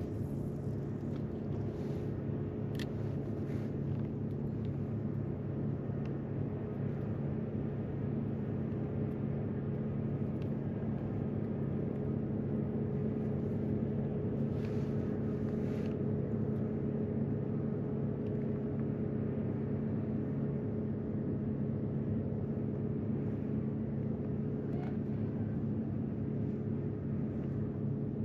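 Electric trolling motor of a pedal/motor kayak running at a steady speed, a constant low hum with water noise, and a couple of light knocks about 3 and 15 seconds in.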